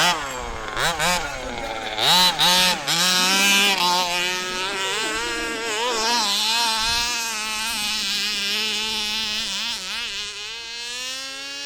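Freshly restarted 29cc two-stroke engine of a 1/5-scale HPI Baja 5B gas RC buggy, revving. It blips up and down sharply for the first few seconds, then holds high revs with small wavers, and eases off a little near the end.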